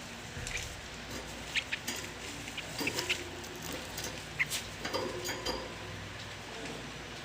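Nestling birds giving short, high, squeaky begging cheeps, scattered irregularly, the calls of chicks being hand-fed.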